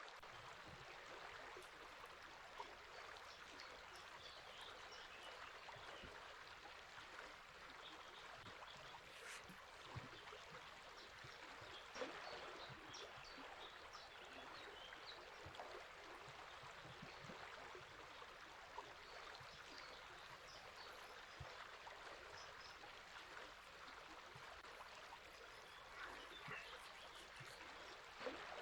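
A river flowing steadily and faintly, with small bird chirps scattered over it and a couple of brief clicks, one about halfway through and one near the end.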